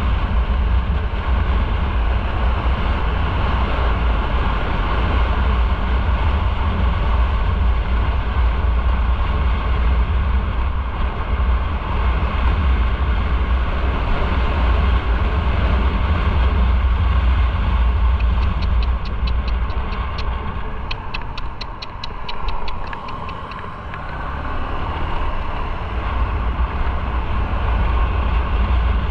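Motorcycle on the move: engine, road and wind noise with a heavy low rumble. It eases off about twenty seconds in and picks up again. A quick, light ticking of about five a second runs for a few seconds around the dip.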